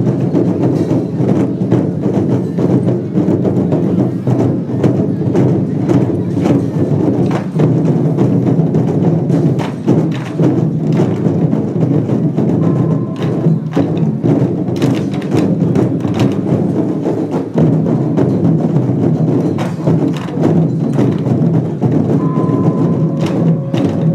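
Taiwanese lion dance percussion band playing: drum, gongs and cymbals struck in a dense, steady, unbroken beat.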